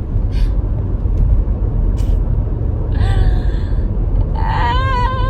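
Steady low rumble of road and engine noise inside a moving car. A short voice sounds about three seconds in, and a long, wavering high-pitched voice near the end.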